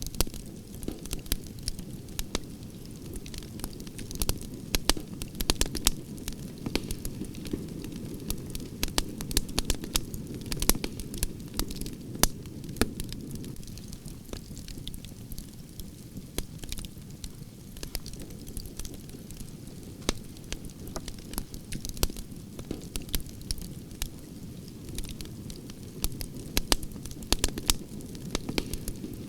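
Wood fire of burning branches crackling and popping, many sharp snaps over a steady low rumble of the flames.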